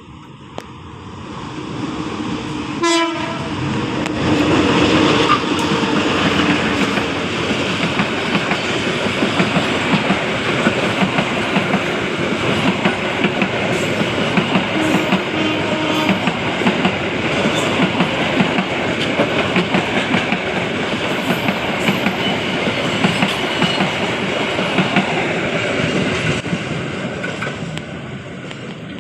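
Sribilah Utama passenger train passing close by, its wheels clattering steadily over the rails, with the horn sounding from about three to seven seconds in. The noise builds at the start and dies away in the last few seconds as the train moves off.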